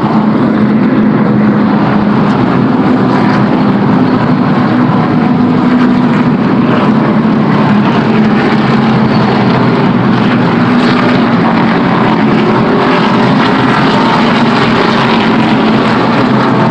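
A field of NASCAR stock cars' V8 engines running at racing speed in a steady, very loud drone. The sound is loud enough to overload the recording and distort it.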